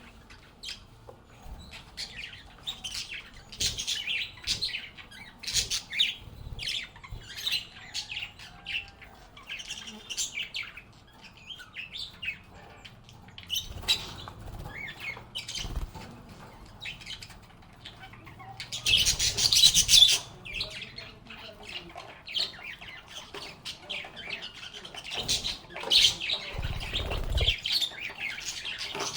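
Lovebirds chirping and chattering in quick, high, short calls, with a louder, denser flurry about two-thirds of the way through and a low thump near the end.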